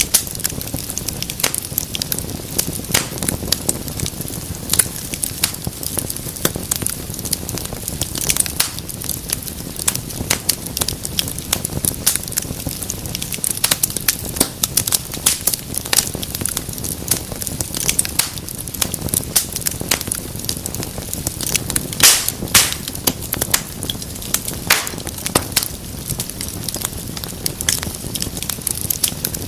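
Wood fire in a fireplace crackling, with frequent irregular sharp pops and snaps over a steady low rush of the flames. One pop about three-quarters of the way through is louder than the rest.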